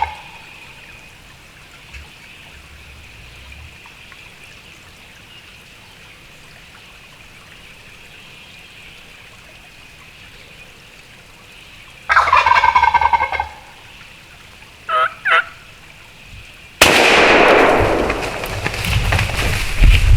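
A wild turkey gobbler gobbles once, loud and close, about twelve seconds in, followed by two short high calls. Near the end a sudden loud blast cuts in and is followed by continuing loud, rough noise.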